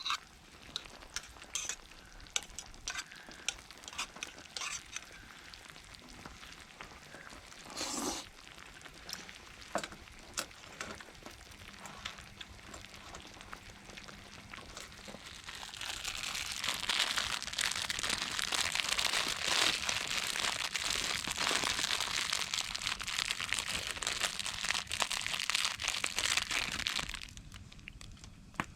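Scattered clicks and small crackles, then about halfway in a loud, even sizzle of food frying in a hot pan starts and runs for about ten seconds before cutting off abruptly.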